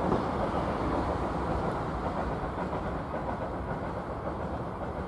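A railway train rumbling on the rails as it moves away, fading slowly.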